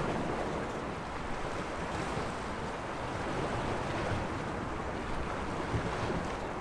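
Sea waves washing against the shore in a steady wash, with some wind on the microphone.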